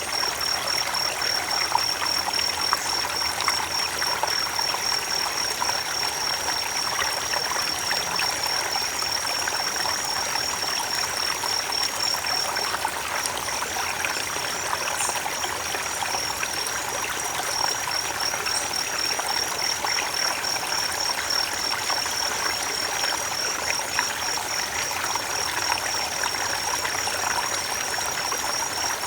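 Creek water flowing and trickling in a steady rush. A steady high-pitched tone sits over it, breaking off briefly about halfway through.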